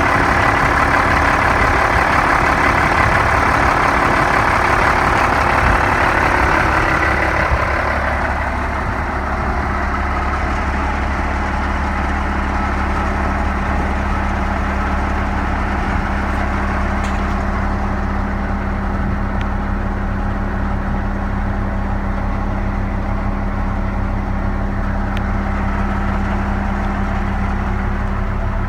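1990 International 4900 dump truck's diesel engine idling steadily. A louder rushing noise over the engine sound drops away about eight seconds in.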